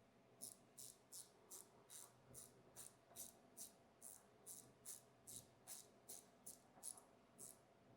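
Ratchet wrench clicking in short, regular strokes, about two and a half a second, as a bolt is run in.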